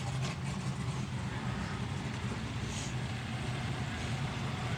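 Steady low engine rumble, like a vehicle idling, over a constant haze of outdoor background noise.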